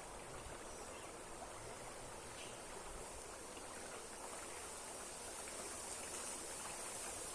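Steady rush of water from a waterfall running strongly.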